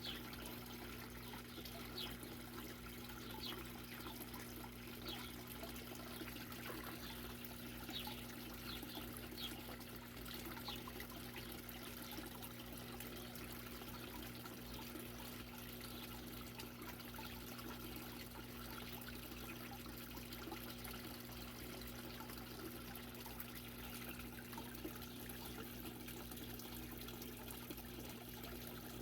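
Steady trickling water with a low, even hum beneath it, and short high bird chirps scattered through roughly the first ten seconds.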